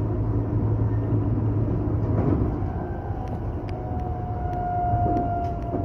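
Electric commuter train running on the Tobu Nikko Line, heard from inside the carriage: a steady low rumble. About four seconds in, a faint high whine comes in and drops slightly in pitch.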